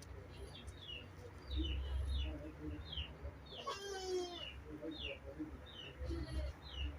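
Small birds chirping over and over, short falling chirps about two a second, with one longer call that falls in pitch about halfway through. A low rumble comes twice, once early and once near the end.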